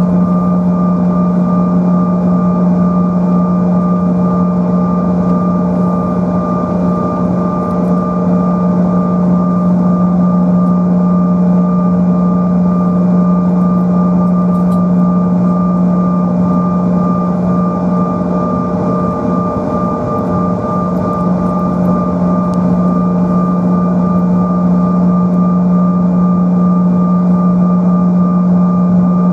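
Rear-mounted turbofan engines of a Bombardier CRJ-900LR, heard inside the cabin, running steadily at low power before the takeoff roll. A constant low drone carries a few steady whining tones above it, with no spool-up.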